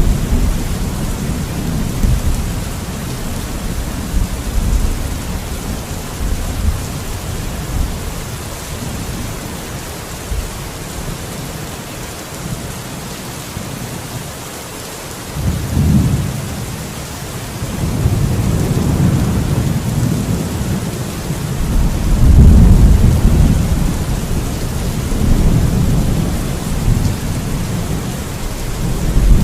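Thunderstorm: steady rain with rolling thunder. The rumble eases off in the middle, then swells back in about halfway through, with the loudest peals a little past two-thirds of the way.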